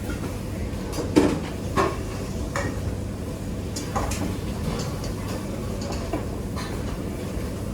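Kitchen utensils and dishes clinking and knocking: a handful of separate strikes, the loudest about a second in, over a steady low background noise.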